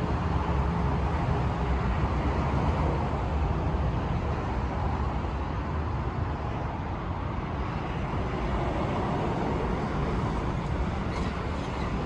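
Steady motor-vehicle noise with no revving or change in pitch.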